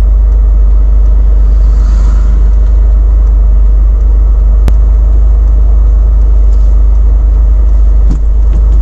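Porsche 930 Turbo's air-cooled, turbocharged flat-six and road noise heard from inside the cabin while driving: a steady low rumble. There is a single sharp click about halfway through.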